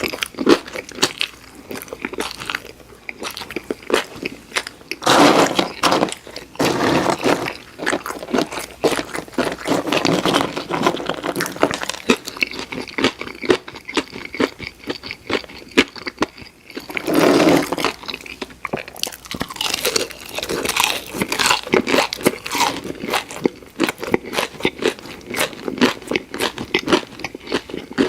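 A person chewing crispy fried food close to the microphone: a steady run of crunches, with louder, denser bites about five seconds in and again about seventeen seconds in.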